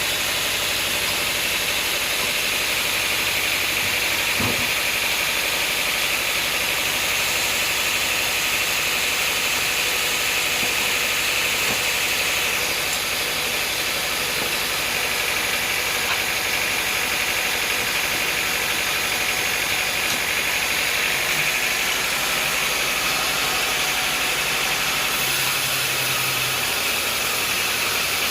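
Sawmill machinery running steadily, a loud, even mechanical noise with a high hissing band and no pauses; a low hum joins near the end.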